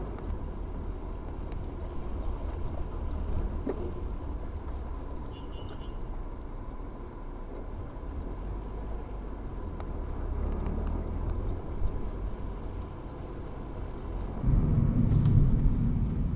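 Steady low road and engine rumble of a moving vehicle, picked up by a dashcam, with a faint steady whine over it. Near the end the sound cuts abruptly to a louder, deeper rumble.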